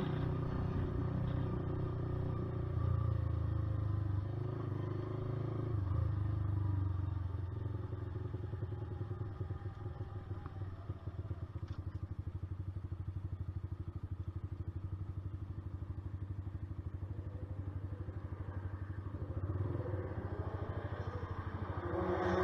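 Honda CBR125R's single-cylinder four-stroke engine winding down as the bike slows, then idling with an even pulse, and revving up sharply near the end.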